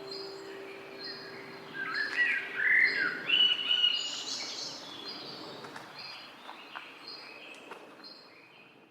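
Songbirds chirping and singing, a short high note repeated about once a second, with a louder burst of song in the middle. The last piano note dies away in the first few seconds, and the birdsong fades out near the end.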